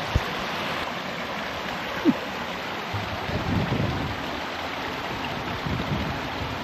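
A creek running steadily over rocks, with two short knocks, one just after the start and one about two seconds in, and a low rumbling in the second half.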